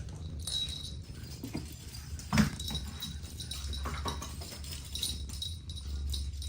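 Kittens playing: scattered light taps and scuffles over a low steady rumble, with one louder thump about two and a half seconds in.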